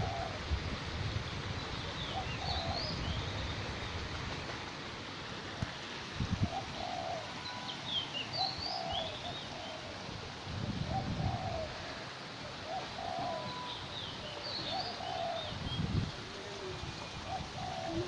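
Birds calling in an aviary: a short low call repeated irregularly about once a second, and a higher twittering phrase three times, about six seconds apart. A few dull low rumbles come and go underneath.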